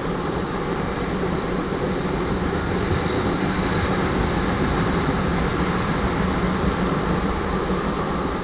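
Loaded tank cars of a crude oil train rolling past, a steady rumble and rush of steel wheels on the rails that swells a little in the middle.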